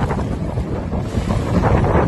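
Storm wind gusting hard against the microphone, with rough sea splashing.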